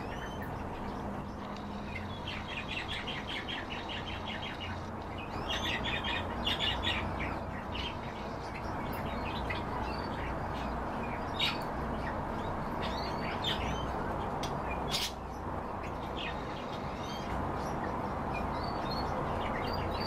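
Cage birds chirping and calling, with a couple of quick runs of rapid repeated notes early on and scattered short sharp chirps afterwards, over a steady background hiss.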